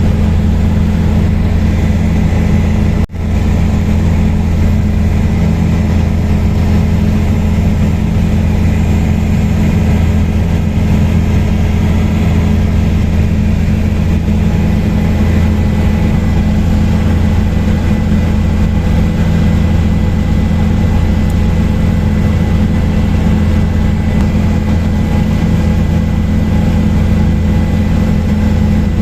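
Helicopter in flight: a steady, loud drone of engine and rotors with a low hum and several steady tones. There is a momentary break in the sound about three seconds in.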